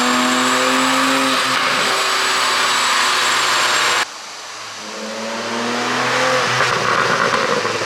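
Porsche 718 Boxster 4.0 GTS's naturally aspirated 4.0-litre flat-six running on a pop-and-crackle ECU tune. It is loud, with a heavy rushing noise over the engine note. After an abrupt cut about four seconds in, the engine note climbs in pitch and grows louder as it revs up.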